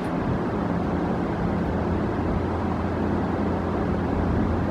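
Steady low rumble with a constant hum from a standing electric train.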